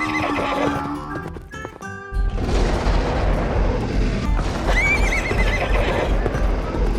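Horse whinnying, a cartoon sound effect, over background music, one wavering call about five seconds in. A dense rumbling noise sets in about two seconds in and runs on under it.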